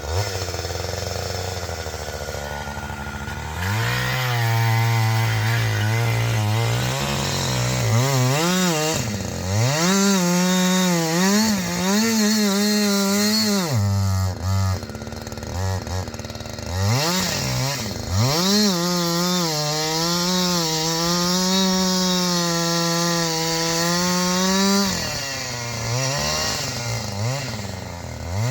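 Chainsaw idling for the first few seconds, then opened up to high revs in a cut into a black walnut trunk. Its pitch sags under load and swoops down and back up several times as the throttle is eased and reopened.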